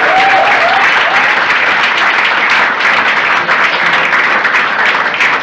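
Audience applauding: a loud, steady round of clapping that eases a little toward the end.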